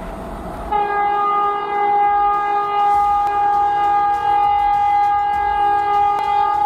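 Train horn sounding one long steady blast of about six seconds, starting about a second in, over the low rumble of a train.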